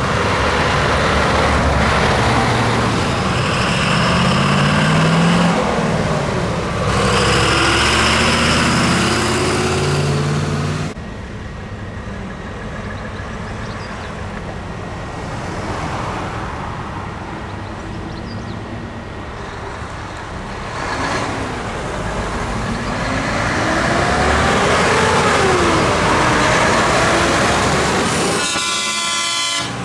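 Trucks driving past in a convoy, engines running, with two long horn blasts in the first half. The sound drops suddenly about eleven seconds in, and rising and falling engine tones follow later.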